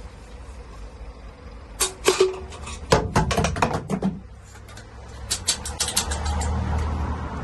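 Irregular clicks and knocks, in clusters of several at a time, over a low steady rumble in a small enclosed space.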